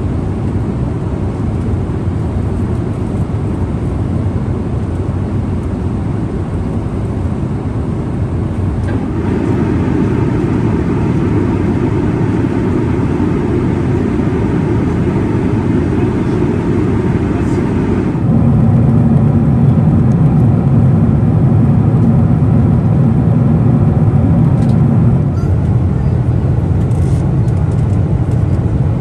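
Steady roar of the Boeing 777-300ER's GE90 jet engines and airflow heard inside the cabin, shifting abruptly in loudness and tone twice, about a third and two thirds of the way through.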